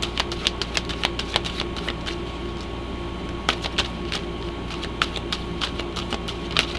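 Oracle card deck being shuffled by hand: irregular light clicks and snaps of the cards, over a steady low hum.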